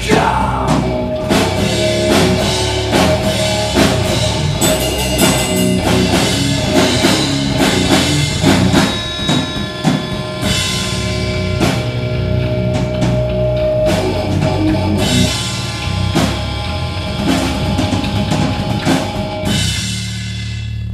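Live rock band playing an instrumental passage: a drum kit beating hard under electric guitars. Near the end the drums stop and a held chord rings out.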